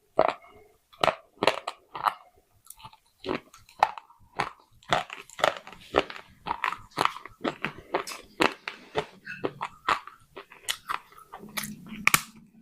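Close-up crunching of baked clay pot pieces being bitten and chewed: a steady run of sharp, brittle crunches, about two or three a second.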